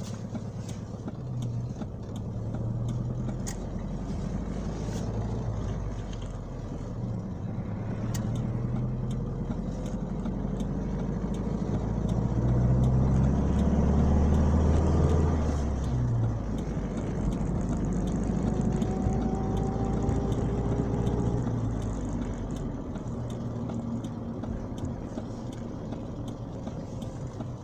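GAZ Volga's ZMZ-24D four-cylinder petrol engine running as the car is driven. The engine note rises and falls with speed and is loudest about halfway through.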